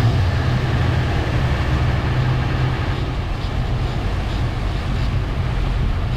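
Boat engine running steadily under way, with water and wind wash over it. A faint high whine fades out about halfway through.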